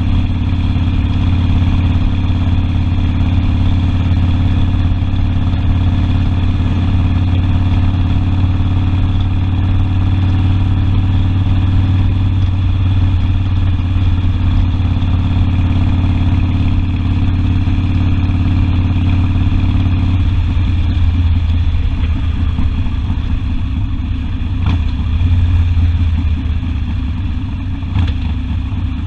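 Harley-Davidson Sportster's V-twin engine running steadily under way, heard from the rider's seat. About two-thirds of the way through its steady note breaks up into a rougher, less even rumble, and two brief ticks come near the end.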